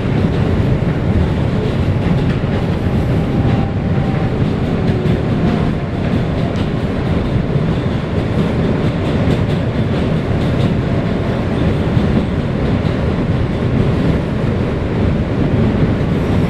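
NYC subway R160B Siemens car running along the track, heard from inside the car: a steady low rumble with wheel clicks over rail joints through the middle stretch.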